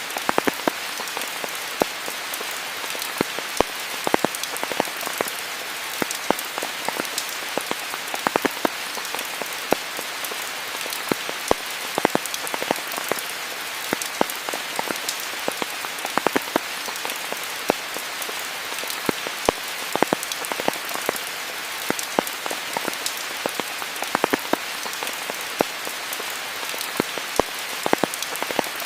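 Steady rain falling on foliage, a constant hiss dotted with many sharp, close drips and drop hits.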